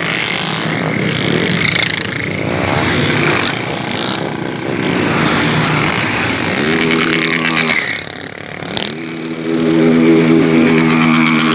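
Motorcycle engines running under way, with the engine pitch rising sharply twice, about six and a half and nine seconds in, then holding steady.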